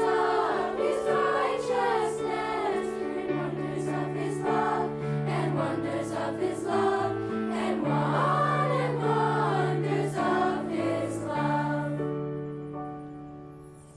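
School choir singing a Christmas piece with instrumental accompaniment. The voices stop about twelve seconds in, leaving a held chord that fades away.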